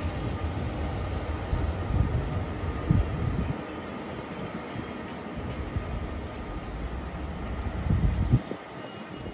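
JR electric commuter train running along the platform: a steady rumble of wheels on rail with a few knocks over the rail joints. A thin, high wheel squeal sets in a few seconds in and holds until near the end.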